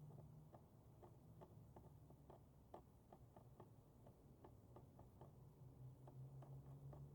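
Near silence, with faint regular ticking at about two ticks a second over a low steady hum.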